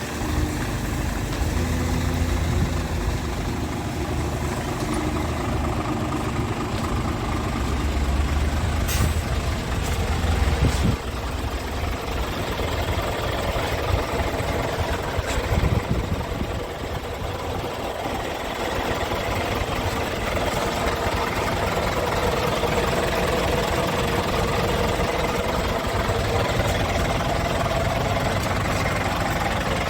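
Scania R450 tractor unit's 13-litre straight-six diesel idling steadily, with a few short knocks partway through.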